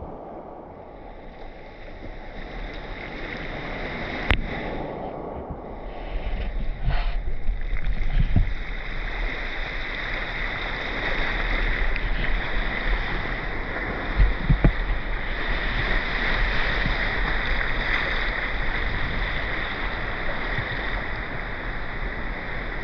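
Water rushing and surging steadily, swelling slowly, with a sharp click about four seconds in and a few low thumps later on.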